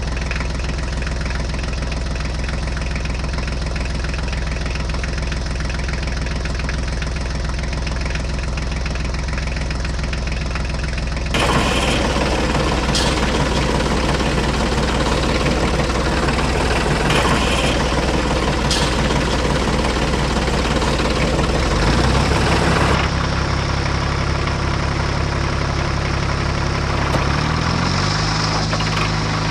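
An engine running at a steady idle with a low, even thrum. About 11 seconds in it becomes louder and busier. Near the end its pitch steps up as it revs.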